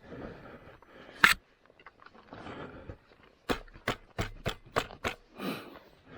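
Sharp knocks and clatters of hard objects on rocky ground: one loud knock about a second in, then about half a dozen quick knocks and clacks in the middle.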